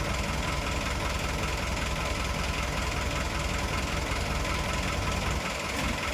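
An engine idling with a steady, rhythmic low throb. The throb drops away about five seconds in.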